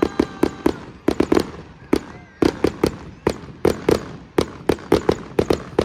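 Fireworks going off in a rapid, irregular string of sharp bangs and cracks, several a second without a break.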